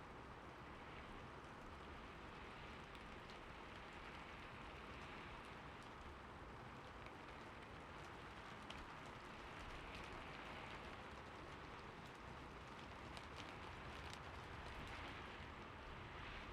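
Soft, steady rain falling: a faint, even hiss with scattered ticks of single drops.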